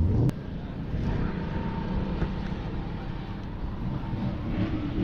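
A loud low engine rumble that cuts off abruptly a moment in, followed by steady outdoor background with a vehicle engine running and faint voices.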